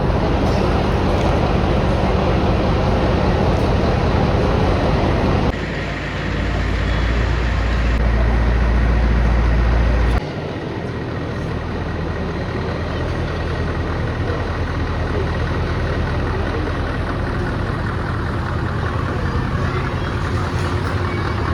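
Large truck engine running steadily at idle. The low rumble changes abruptly twice, about five and ten seconds in.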